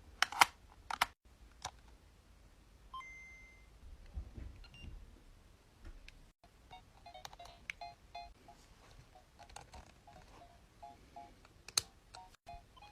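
Short electronic beeps and a few clicks: a single brief beep about three seconds in, then from about halfway on a run of quick, evenly repeated blips.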